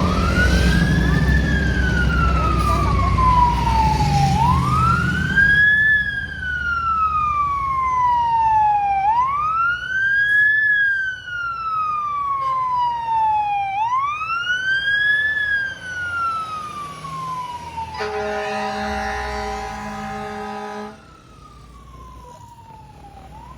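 Fire truck siren wailing, each slow rise and fall taking about four to five seconds, with low engine rumble at first. Near the end the truck's horn sounds one steady blast of about three seconds, and then the siren carries on much quieter.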